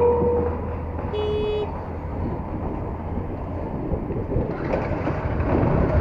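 Steady road, engine and wind noise of a motorcycle ride in traffic. A long horn fades out in the first half second, and a short vehicle horn beeps once about a second in.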